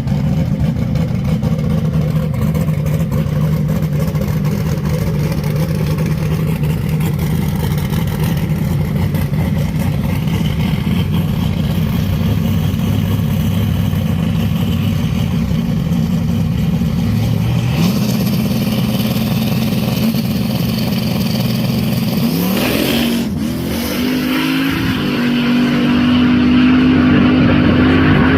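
A drag-racing car's engine idles steadily, revs up about two-thirds of the way through, then launches at full throttle down the strip, its pitch climbing and then holding high. It is loudest near the end.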